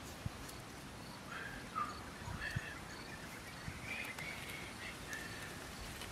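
Birds chirping in short, scattered calls over a low outdoor background hiss, with a few soft low knocks from handling.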